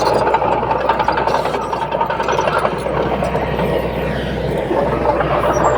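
Diesel engine of heavy earthmoving machinery running steadily, with a constant low hum under a dense engine noise.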